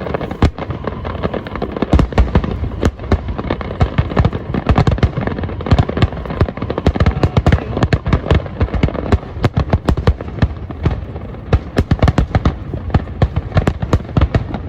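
Fireworks display going off: a dense, continuous barrage of bangs and crackling pops with a low rumble beneath.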